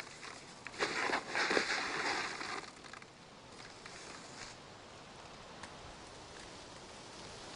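Steady rain falling, heard as a noisy patter, with a louder stretch of noise from about one to three seconds in.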